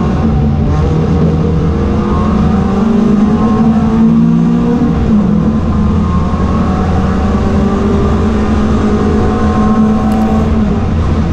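Ford Fiesta race car engine running hard under load. Its pitch climbs and falls several times as it accelerates and shifts through the gears, with the biggest drop about five seconds in.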